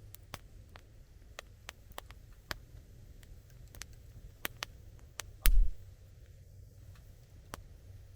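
Wood fire crackling: irregular sharp pops and ticks over a low steady rumble, with one much louder pop carrying a dull thump about five and a half seconds in.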